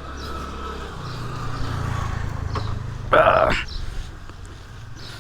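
Motorcycle engine idling low and steady, its pitch stepping up about a second in. A short, loud pitched cry cuts over it about three seconds in.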